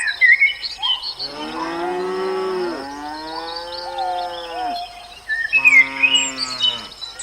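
Cow mooing twice: one long, drawn-out moo, then a shorter one, with small birds chirping around them.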